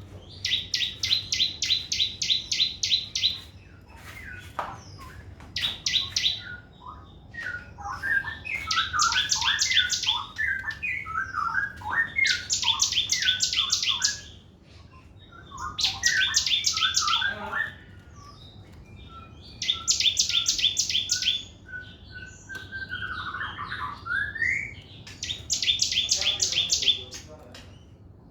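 Sogon trotol songbird singing continuously: loud, very rapid high trills of two to three seconds, repeated about every four seconds, with varied lower chirping notes in between.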